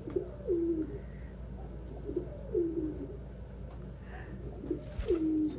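Domestic pigeon cooing three times, about two seconds apart, each a low coo that rises briefly and then falls into a longer drawn-out note.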